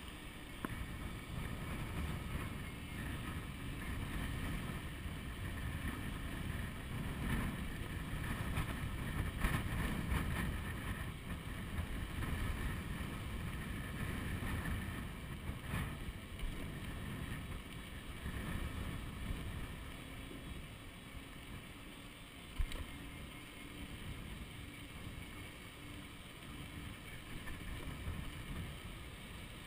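Wind buffeting the microphone of a chest-mounted GoPro on a moving electric bicycle: a steady, gusting low rumble. There is a single sharp click about three quarters of the way through.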